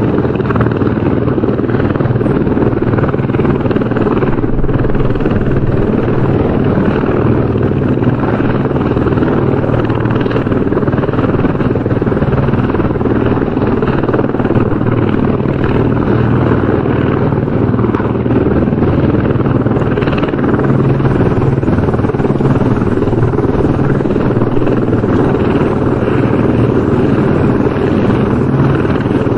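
Helicopter rotor and engine noise, a steady continuous drone with a low rotor throb and no change in level.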